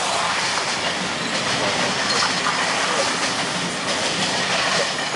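Canadian Pacific Holiday Train rolling past on the rails: a steady rumble and rushing noise with the light clatter of wheels over rail joints.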